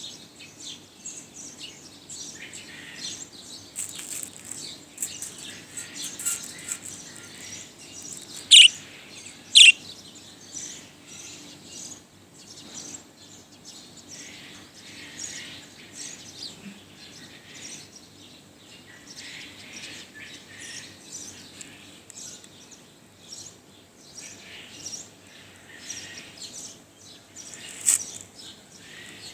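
Budgerigar chattering in a steady run of short, high chirps, with two loud sharp calls about eight and nine and a half seconds in and another near the end.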